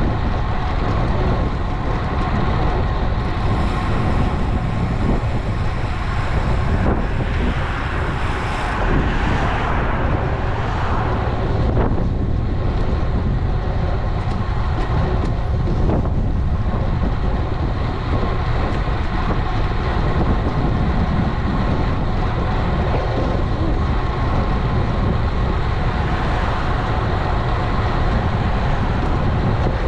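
Wind rushing over an action camera's microphone on a moving road bike, a steady low rumble, with road and traffic noise underneath.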